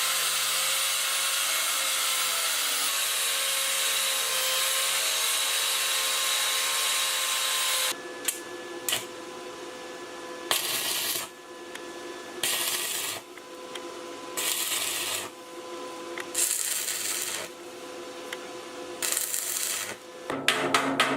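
A power tool running with a steady hiss for about eight seconds, then in on-and-off bursts of about a second each, with a faint steady hum underneath.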